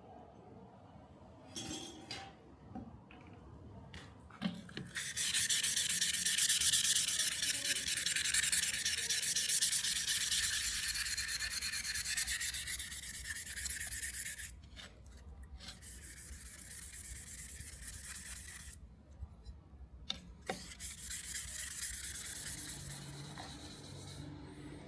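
Abrasive sanding of metal, a harsh scraping hiss in long stretches with short breaks between them.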